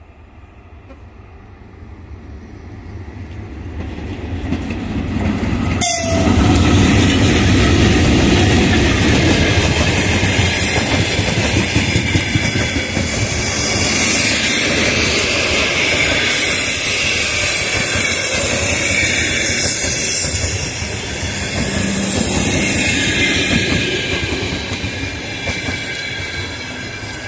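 VL80t electric locomotive hauling a long-distance passenger train past at speed. Its coaches roll by on the rails, the sound building as the train approaches over the first several seconds, staying loud while the carriages pass, then fading near the end as the train draws away.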